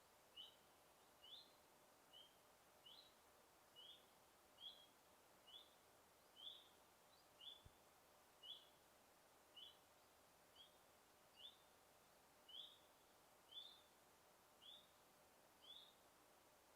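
A single bird in a forest calling one short, high, upward-flicking chirp over and over, about once a second, faint over a steady background hiss.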